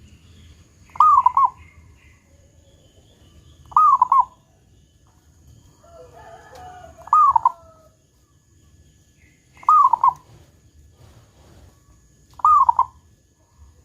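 Zebra dove (perkutut) cooing: five short, loud phrases, each a quick falling note run into a couple of rapid notes, repeated about every three seconds.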